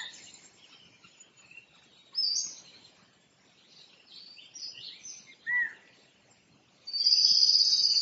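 Songbirds chirping and singing: scattered short high calls and a single curved whistled note, then a loud, high trill starting about seven seconds in.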